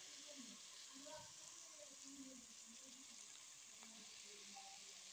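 Faint, steady sizzling of a chicken and vegetable mixture cooking in an aluminium pot.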